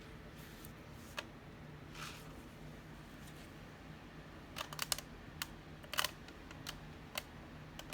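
Scattered small, sharp clicks and taps of jewelry being handled and set down, several close together about four to five seconds in and another about six seconds in, over a faint steady hum.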